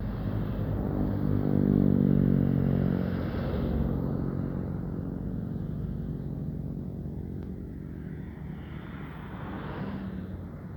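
A motor vehicle's engine passing by, loudest about two seconds in and fading away, with a second, quieter vehicle passing near the end.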